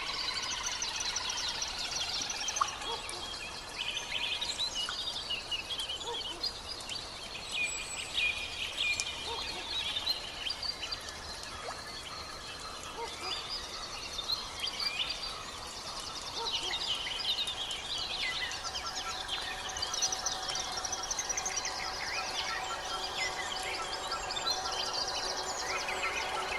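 Several wild birds singing and calling at once, with overlapping chirps and trills. About two-thirds of the way in, a steady run of rapid repeated lower notes joins them.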